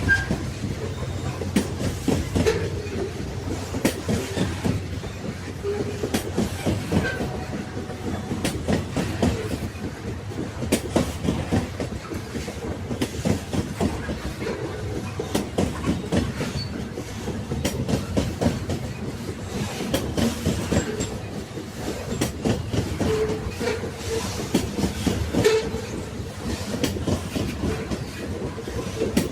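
Railway carriages rolling along the track: a steady low rumble with a constant stream of clicks and knocks from the wheels running over the rails, and now and then a short faint squeak.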